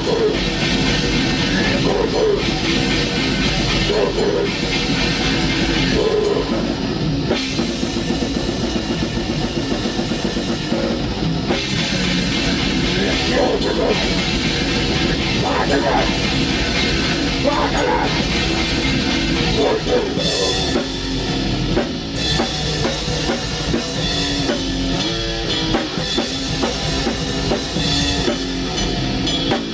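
Black metal band rehearsing at full volume: a drum kit with bass drum drives under a dense, unbroken wall of band sound.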